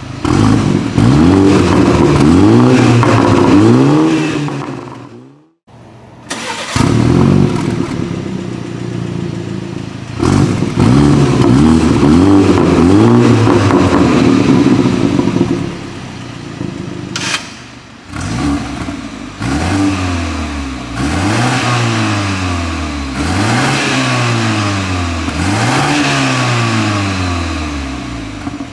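BMW 330i G20's 2.0-litre turbocharged four-cylinder engine revving through a Brillante valved aftermarket exhaust, the pitch climbing and falling again and again. It briefly cuts out about five seconds in, and near the end gives a run of about five separate rev blips.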